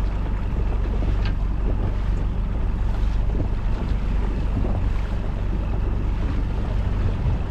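Steady low rumble of wind on the microphone, mixed with the running noise and water of a small inflatable boat at sea.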